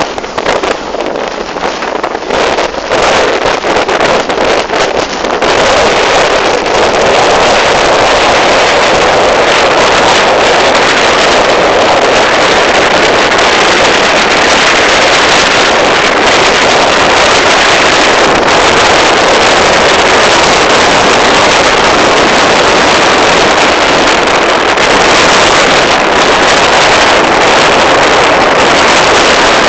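Loud, steady rush of wind on the microphone and water along the hull of a Snipe sailing dinghy under way in a 13–15 knot breeze. The sound comes in uneven gusts for the first few seconds, then becomes continuous from about five seconds in.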